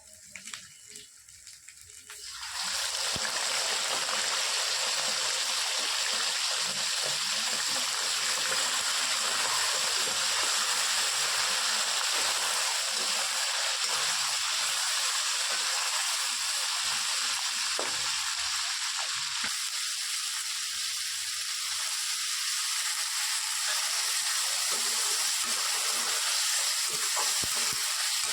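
Food hitting hot oil in a pan, starting about two and a half seconds in, then sizzling and crackling steadily, with a few light taps near the end.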